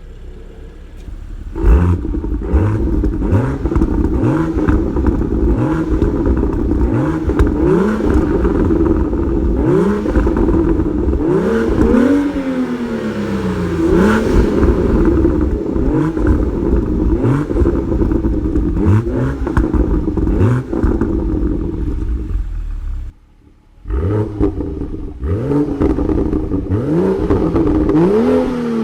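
BMW M2's turbocharged inline-six, on the stock exhaust, revved repeatedly while standing still: short throttle blips about once a second, each pitch rising then falling away, with one longer rev around halfway through. The sound cuts out briefly near the end, then the blips resume.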